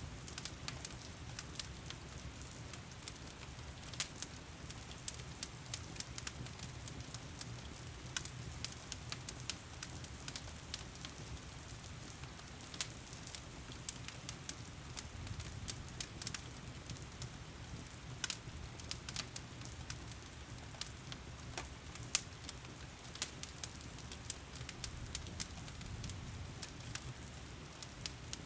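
Wood fire crackling with frequent sharp, irregular pops over a steady rush of heavy rain, with a low rumble of flames underneath.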